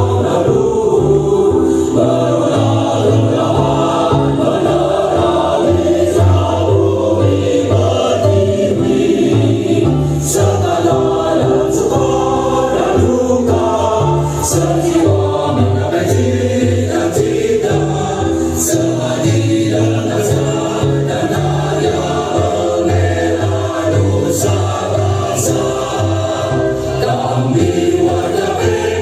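Choral march song, a choir singing over a steady bass line, played loud over a sound system.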